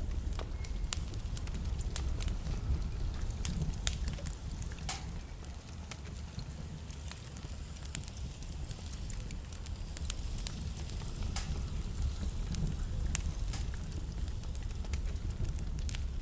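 Wood fire burning in a fireplace: a steady low rumble of the flames with frequent irregular crackles and sharp pops from the burning logs.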